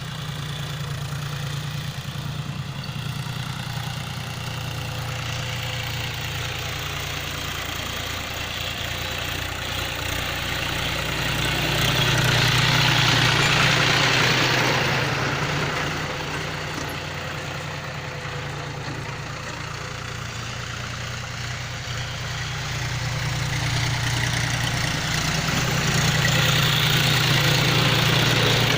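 John Deere 5039D tractor's three-cylinder diesel engine running steadily, its sound growing louder twice, about halfway through and again near the end.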